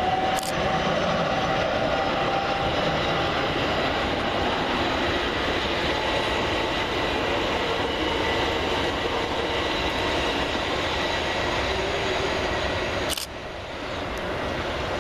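Class 387 Electrostar electric multiple unit running at the platform, with a steady rumble of wheels on rail and a thin electric motor whine over it. The sound cuts off abruptly about two seconds before the end, leaving a quieter background.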